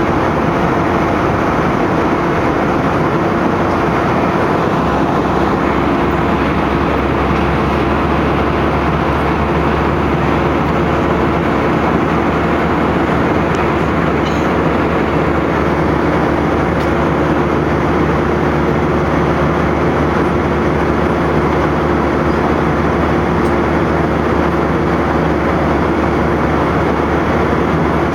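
Airplane cabin noise: the steady rush of the engines and airflow heard from inside the cabin, with a constant low hum beneath it.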